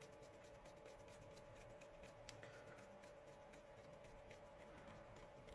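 Near silence: faint room tone with a steady low hum and a few faint scattered ticks of small handling.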